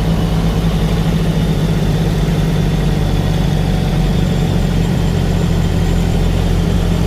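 Truck engine running steadily at an even pitch, a constant low hum with no revving.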